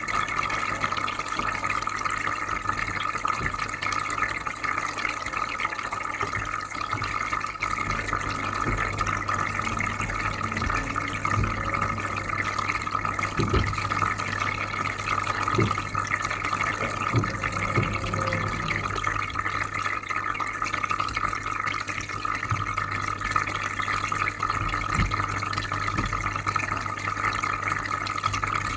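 Aquarium filter running with a steady low hum over soft bubbling, trickling water. A few brief louder pops come about halfway through.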